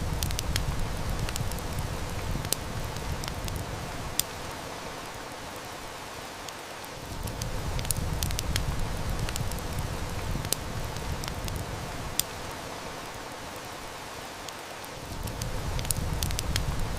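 Steady rain hiss with a wood fire crackling, sharp snaps scattered throughout. Under it a low rumble swells and fades, easing off about four seconds in and returning twice.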